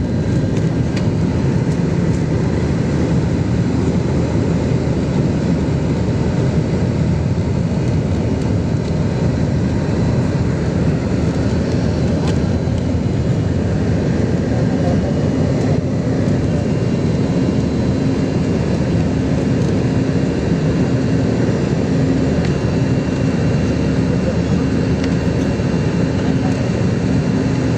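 Airplane engines running steadily during takeoff: a loud, even rumble, with a faint steady tone joining it about halfway through.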